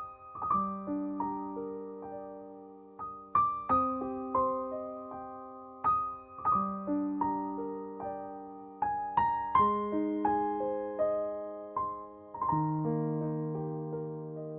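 Slow, gentle piano music: soft notes struck one after another and left to ring and fade, starting a new phrase every few seconds.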